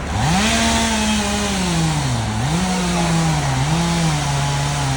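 A two-stroke chainsaw running, its engine speed climbing sharply at the start and then sagging and recovering several times as it works.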